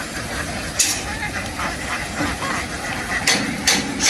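A flock of ducks quacking over a constant noisy background, with a few louder, harsher calls standing out about a second in and twice near the end.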